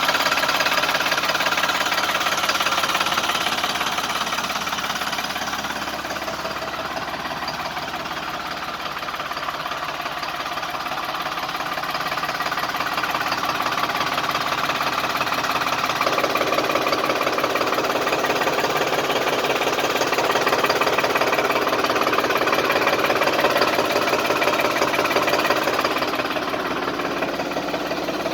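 New Holland tractor's diesel engine running with a steady, rapid clatter. It becomes a little quieter for a few seconds, then louder again.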